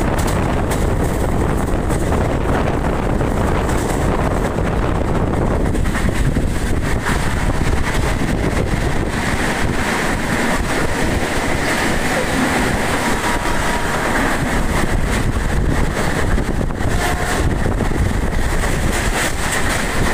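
Udyan Express passenger train running, with steady rumble of wheels on rail and wind buffeting the microphone. A faint high whine joins about six seconds in.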